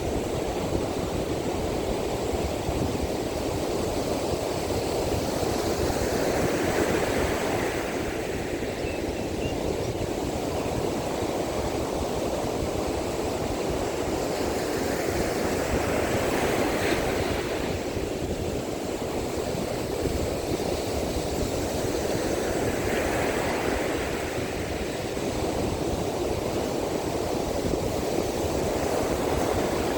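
Rough sea surf breaking on a beach in strong monsoon wind: a continuous wash of noise that surges as waves crash, about every several seconds.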